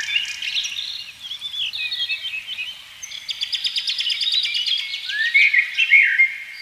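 Several birds chirping and singing over one another in quick, overlapping calls, with a fast rattling trill in the middle.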